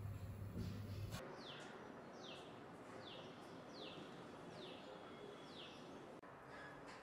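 A bird calling, six short falling chirps a little under a second apart, faint over quiet room tone. Before that, for about the first second, a low steady hum from the gas stove under a brewing moka pot cuts off abruptly.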